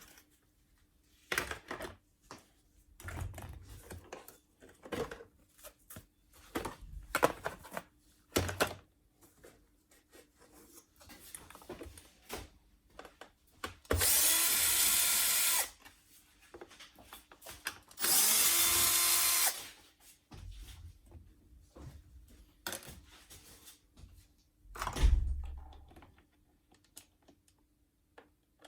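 A handheld power screwdriver runs twice, about two seconds each time, amid scattered clicks and knocks of parts being handled, with one louder thump near the end.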